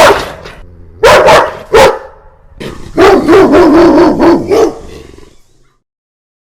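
A dog barking loudly: three separate barks, then a quick run of barks from about three seconds in that fades away.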